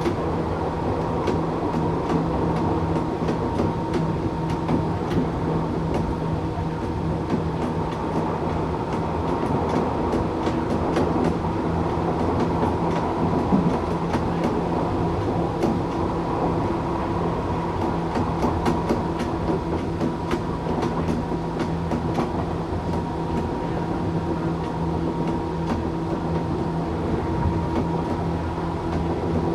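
Tokyu 8500 series electric train with Toyo-made traction motors running at a steady speed: an even motor and gear hum with several steady tones, and faint clicks from the wheels on the rail.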